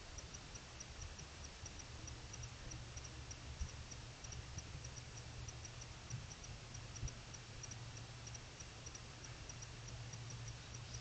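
Insect chirping at night: short, high pips repeating in twos and threes a few times a second, over a low steady hum and hiss.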